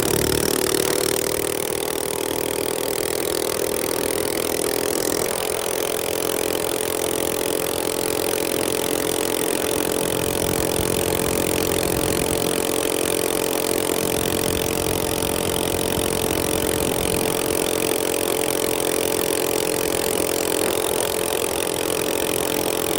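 Minibike's small engine running at a steady, high pitch, held on throttle while riding.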